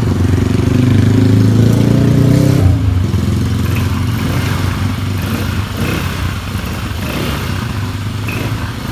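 ATV engine running under throttle, louder for the first few seconds, then dropping back sharply about three seconds in to a lower, uneven running sound.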